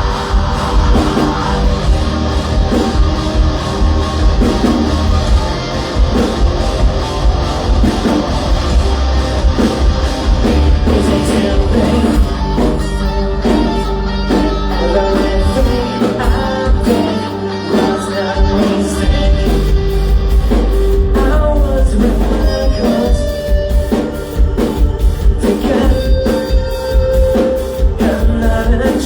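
A rock band playing live, with guitars, a drum kit and a sung vocal line.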